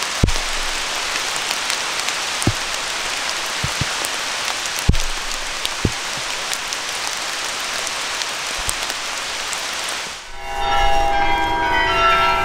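Steady rain falling, an even hiss with a few louder single drops close by. About ten seconds in the rain cuts off and a cluster of sustained ringing tones begins.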